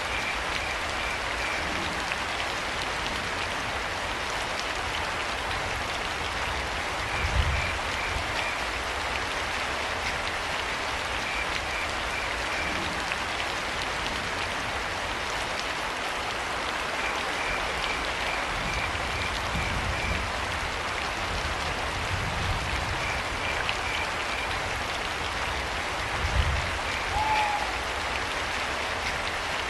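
Steady rain falling, with crickets chirping in short runs of rapid pulses every few seconds. Two low thuds come about a quarter of the way in and near the end, and a brief falling call follows the second one.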